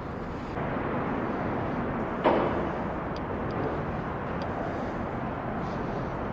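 Steady rumbling background noise, with one sharp knock a little over two seconds in and a few faint ticks after it.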